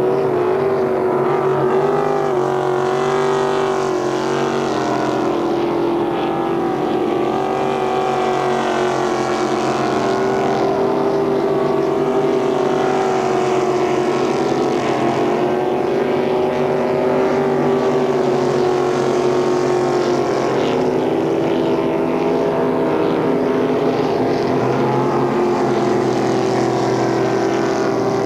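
Racing powerboat engine running hard at a steady high pitch, with a rushing wash of water and wind noise behind it.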